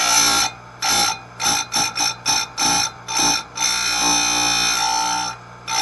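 Electric saw-chain grinder's CBN wheel grinding a chain tooth in a quick run of short touches, then one longer pass of nearly two seconds about three and a half seconds in, its motor hum carrying on between contacts.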